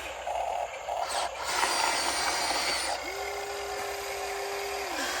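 RC excavator's motor whines up quickly to a steady pitch about three seconds in, holds for about two seconds, then winds down. Before that come a few short mechanical clatters and a knock as the machine works.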